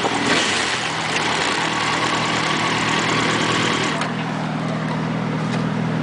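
Motorcycle engine running steadily under heavy wind and road rush; about four seconds in the rush drops off sharply, leaving the low, even engine note.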